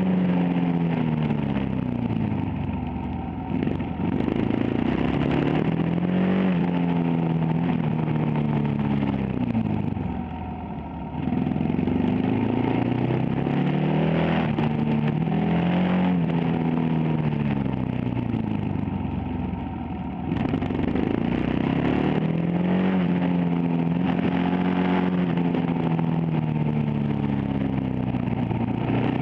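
Supermoto motorcycle engine heard onboard, revving up and down through a series of corners: the pitch climbs on the throttle and through the gears, then drops away as it slows into each turn, several times over.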